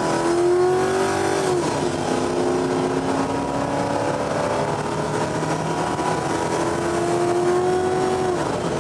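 A car engine running at high revs, its pitch holding level for long stretches and dropping twice, as at gear changes; the sound ends with an abrupt cut.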